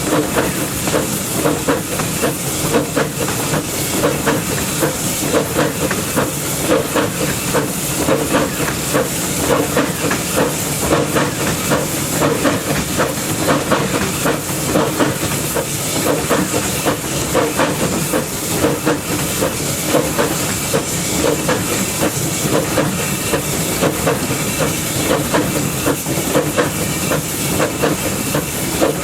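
Narrow-gauge steam locomotive "Henry Clay" under way, heard up close from its running board: a steady hiss of steam over a continuous rattle and clatter of wheels on the rails.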